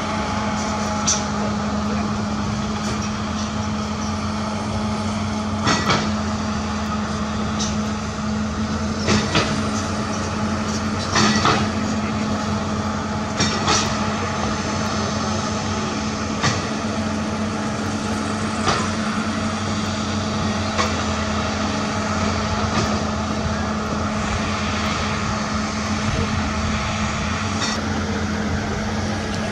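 Heavy construction machine's diesel engine running at a steady speed, with sharp metallic clanks and knocks every few seconds.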